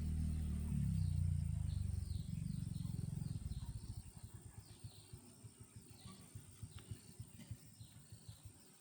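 Tractor engine running with a low, even beat, then losing speed about three seconds in and coasting to a stop in slowing, fading puffs.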